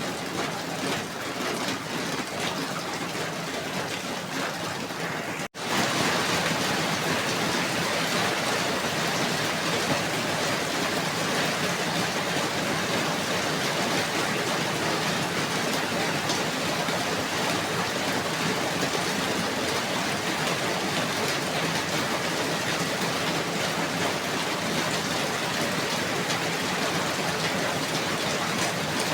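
Steady falling rain, a dense even hiss with scattered drop ticks. About five and a half seconds in it cuts out for an instant and comes back slightly louder and fuller, a splice to another stretch of rain.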